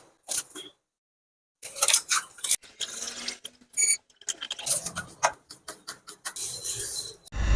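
Irregular clicks, clinks and knocks of small hard objects being handled, broken by a sudden gap of dead silence near the start.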